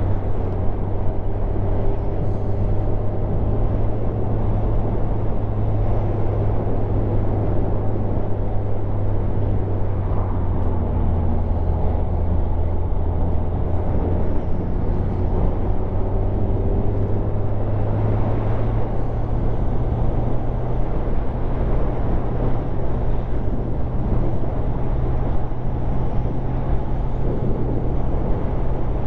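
Motorcycle engine running steadily under way, a constant low drone mixed with wind rush, as heard from the rider's helmet-mounted camera.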